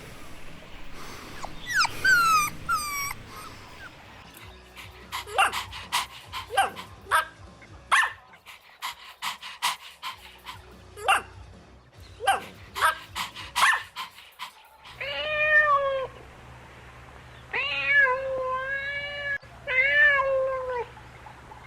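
Puppies whimpering, then a rapid run of short, high yips and barks, followed by three longer drawn-out cries near the end.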